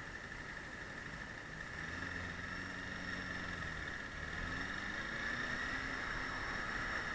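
Motorcycle engine, heard faintly from the riding bike, a 2000 Honda CB250 Hornet's inline-four: its pitch rises, falls away about four seconds in, then rises again, over a steady high tone and wind noise.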